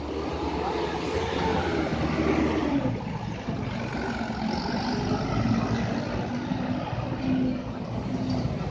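Truck engine running as the truck crawls along. Its pitch drops two to three seconds in, then holds steady over a low rumble.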